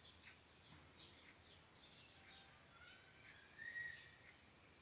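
Near silence with faint birds chirping in the background; one longer rising whistle comes about three and a half seconds in.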